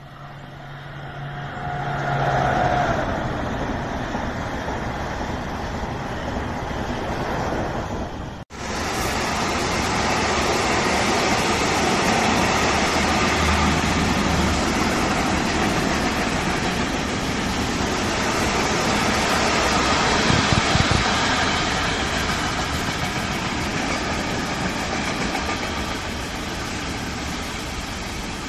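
A train approaching, its sound swelling over the first few seconds. After a sudden momentary dropout about eight seconds in, a long intermodal freight train carrying semi-trailers rolls past close below with a steady rumble of wheels on rail.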